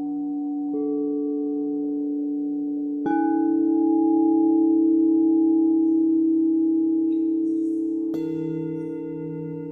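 Singing bowls struck three times, each strike ringing on in long, overlapping tones that waver gently as they fade.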